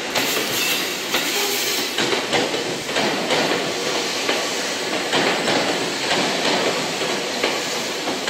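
Seibu 2000 series electric train running along the station platform, its wheels clicking over rail joints again and again above a steady running noise.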